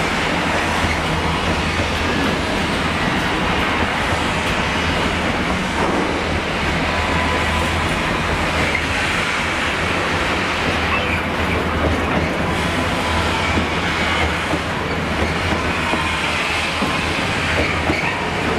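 A freight train of container flat wagons, loaded with shipping containers and then tank containers, rolling steadily past, its wheels running on the rails with an even sound that does not change.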